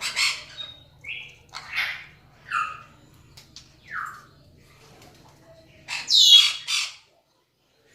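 Parrot squawking: a string of short calls, some sliding down in pitch, then a louder, harsh screech about six seconds in, after which the sound cuts off abruptly.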